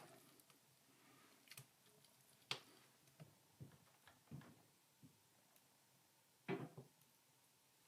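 Faint room tone broken by scattered soft clicks and knocks of objects being handled, with two louder knocks about two and a half seconds in and near the end.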